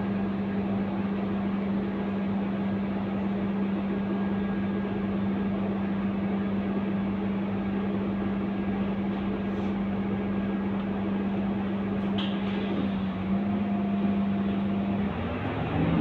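Scania K230UB city bus's diesel engine idling with a steady hum, heard on board; near the end the note shifts and starts to rise as the bus begins to pull away. A brief high-pitched sound comes about twelve seconds in.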